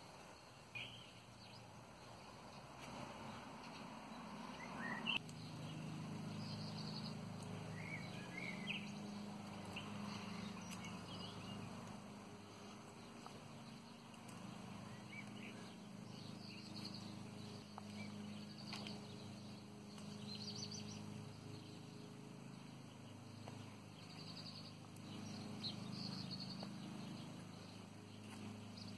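Faint birds chirping here and there over a steady low hum, with one sharp click about five seconds in.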